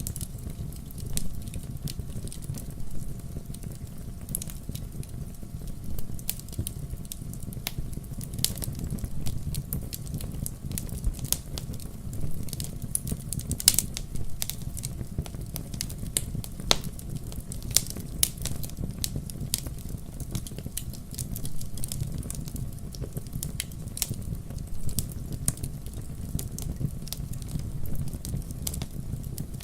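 Wood fire in a fireplace crackling steadily: frequent sharp pops and snaps over a low, even rumble of burning, with a few louder pops around the middle.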